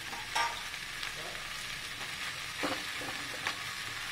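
Shredded chicken in soy and chili sauces sizzling steadily in a pan on a gas stove, under a fresh pile of peperomia leaves. A few short knocks sound against the pan.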